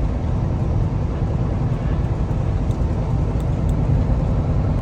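Steady engine drone and road rumble heard inside a Kenworth T680 semi-truck's cab while driving.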